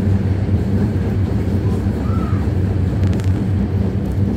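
MTR Disneyland Resort Line train running, a steady low rumble heard inside the carriage, with a brief faint squeal about two seconds in and a few faint clicks near the end.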